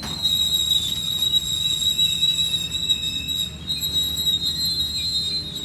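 A passenger train standing at the platform, running: a steady low rumble with a constant high-pitched whine over it.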